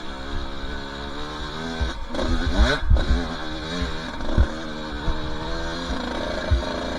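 Two-stroke dirt bike engine running under changing throttle, its pitch wandering up and down. It revs up sharply about three seconds in. Low thuds sound underneath.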